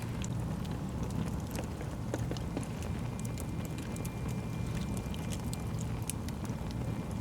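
Wood fire burning in a fireplace: many irregular crackles and pops from the burning logs over a steady low rumble of the flames.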